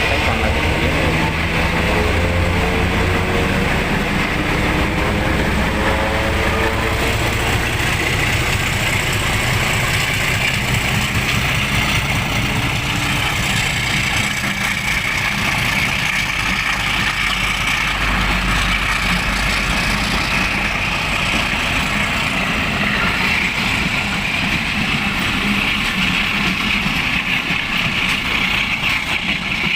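A train running: a diesel locomotive's engine with a steady rolling and rail noise. The engine rises slightly in pitch over the first several seconds, then the sound stays steady.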